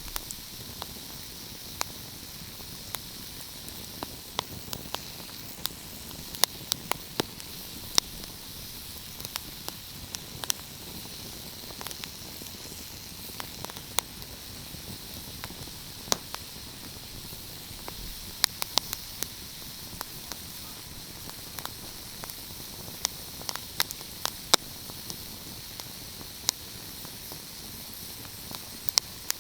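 Wood fire crackling: a steady hiss with irregular sharp pops and snaps, some clustered close together.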